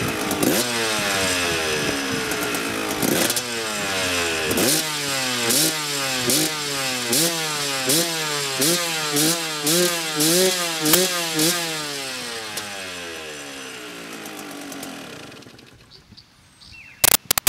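KTM two-stroke dirt bike engine revved on its stand: a rapid string of throttle blips, each rising and falling in pitch, about one and a half a second. The revs then die away and the engine stops, followed by a couple of sharp clicks near the end.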